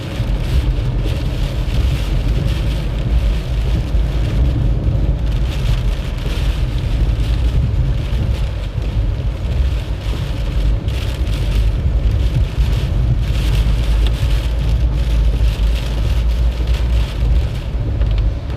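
Heavy typhoon rain and road noise from a moving vehicle: a steady deep rumble under a hiss of rain that swells and fades every second or two.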